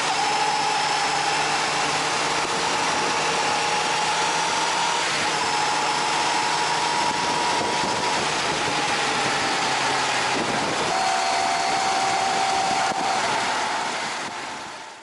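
Honda CBR600RR's front brake, apparently the right-hand side, making a steady scraping whine (shari-shari) over engine and road noise, with the pitch stepping down about two-thirds through and fading near the end. The owner takes it for the brake pads dragging on the disc.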